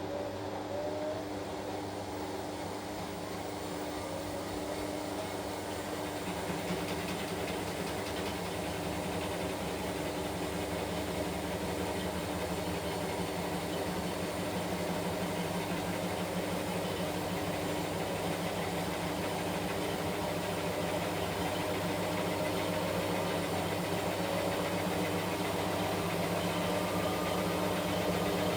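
Washing machine running with a steady motor hum, joined by a rougher churning layer about six seconds in and getting gradually louder.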